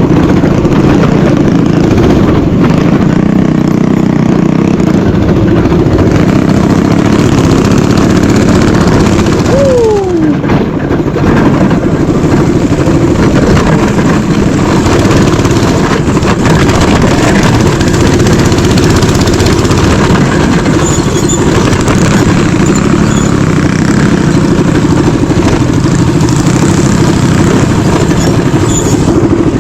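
Mini bike engine running steadily and loudly close to the microphone. A brief falling tone comes about ten seconds in.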